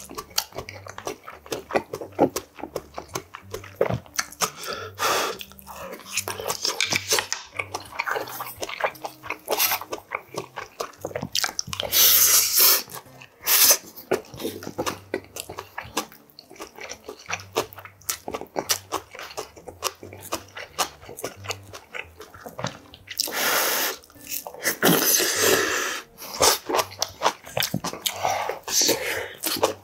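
Close-miked eating sounds: a man chewing and biting mouthfuls of spicy stir-fried sausage, rice cakes and rice, with quick wet smacks and small clicks of chopsticks and a wooden spoon. Twice, near the middle and near the end, there are longer airy breaths blown over hot food.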